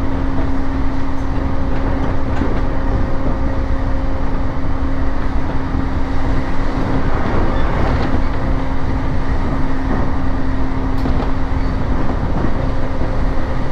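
Running noise inside a JR East Joban Line E531-series train at speed: steady rumble of wheels on rail, with a constant low hum running through it.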